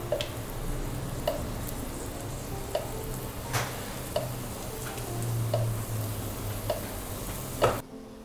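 Spinach waffle batter being worked in the kitchen: a steady hiss with light utensil taps on a bowl or pan roughly once a second. It cuts off suddenly near the end.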